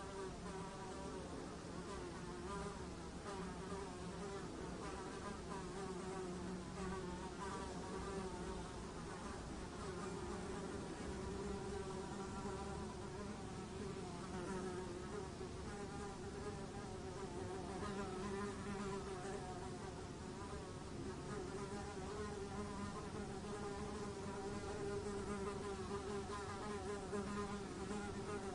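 A fly buzzing continuously, its wingbeat hum wavering slightly in pitch and loudness as it moves about.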